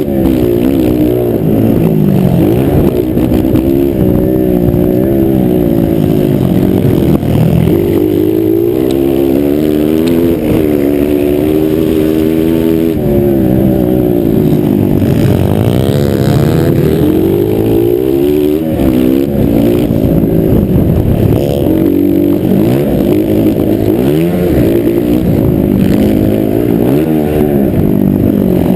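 Several motocross bikes' engines running loudly, their pitch repeatedly rising and falling as the riders rev, accelerate and back off, with more than one bike heard at once.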